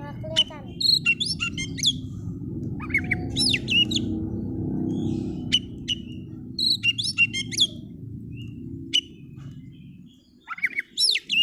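Oriental magpie-robin (kacer) singing in bursts of quick, varied whistled phrases, several times with short pauses between, over a steady low hum that fades out near the end.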